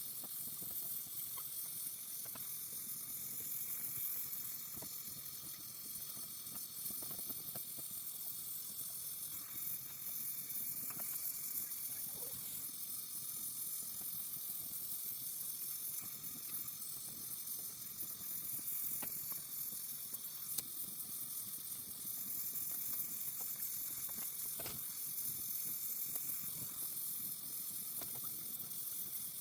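Welding arc on aluminium, a steady high-pitched hiss with a few faint ticks.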